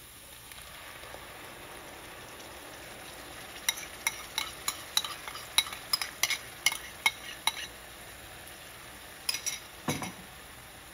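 Onion and spice masala sizzling steadily in oil in a kadhai as ground tomato puree is poured in from a ceramic bowl. A quick run of light clinks, about three a second, comes from roughly four to seven and a half seconds in, and a few more clinks with a duller knock come near the end.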